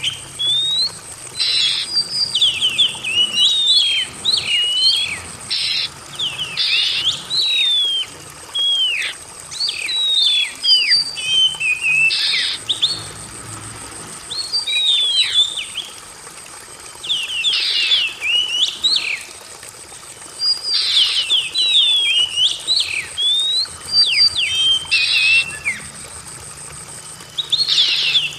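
Oriental magpie-robin (kacer) singing in phrases of rapid, varied whistled notes, with short pauses between phrases and a few short harsh, noisy notes mixed in. A steady high thin tone sounds behind the song throughout.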